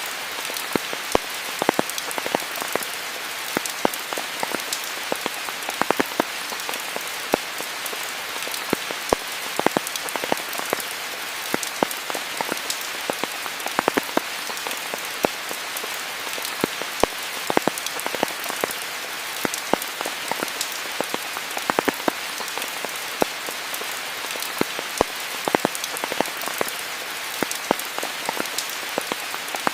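Steady rain falling, a continuous hiss with many distinct drops pattering close by at irregular intervals.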